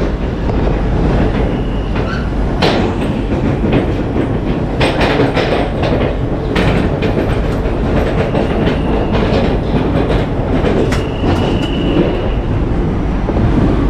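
Indian Railways passenger train pulling slowly out of a station: a steady rumble of the coaches with irregular clicks and clunks from the wheels over rail joints, and a brief high squeal about eleven seconds in.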